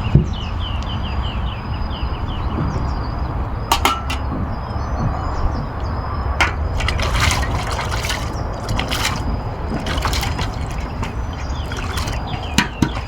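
Water splashing and trickling as dishes and utensils are washed by hand, with occasional sharp clinks of the utensils knocking together.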